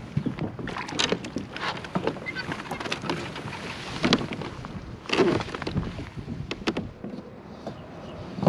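Irregular knocks, clicks and rustles of handling on a fishing kayak, with a few louder bursts, around the landing of a small largemouth bass.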